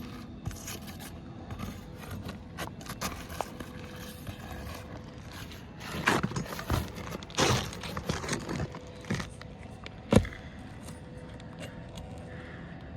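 Asphalt roof shingles being scraped and worked loose by hand during a shingle repair, with scattered clicks, a louder stretch of scraping about halfway through and a single sharp knock near the end.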